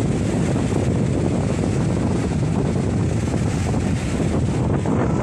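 Strong storm wind buffeting the microphone, a steady heavy rush of noise.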